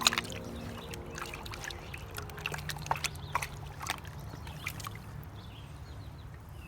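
Water sloshing and trickling in a gold pan, with irregular small splashes and clicks as the material in it shifts.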